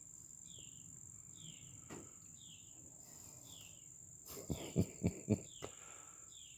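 Outdoor insects: a steady high-pitched drone with a short, falling chirp repeated about twice a second. About four and a half seconds in comes a quick run of four sharp taps, the loudest sound here.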